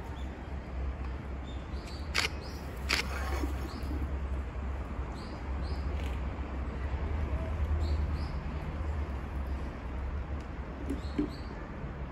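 Small birds chirping: short high chirps, often two in quick succession, every few seconds over a steady low outdoor rumble. Two sharp clicks about two and three seconds in.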